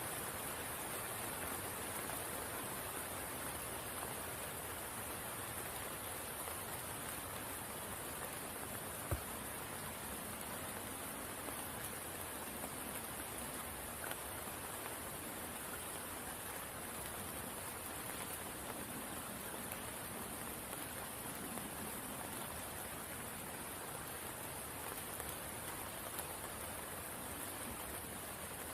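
Steady rain falling on a spring pool, an even hiss with a bright high edge, with one sharp tick about nine seconds in.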